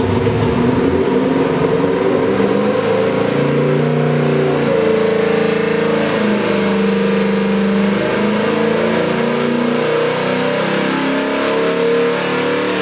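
Fuel-injected Chrysler big-block V8 stroker of almost 500 cubic inches running hard under load on an engine dyno during a power pull, its engine note shifting and mostly rising in pitch.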